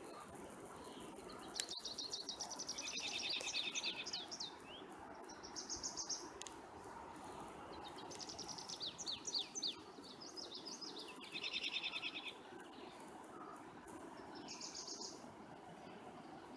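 Songbirds singing: several short bursts of rapid, high trills and chirps, coming every few seconds over a steady background hiss.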